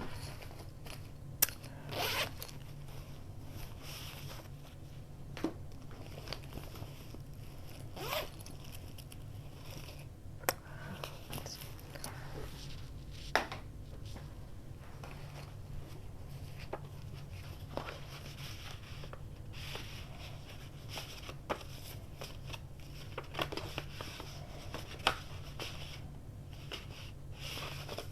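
Scattered clicks, taps and short rustles of craft supplies being handled and rummaged through on a desk, over a steady low hum.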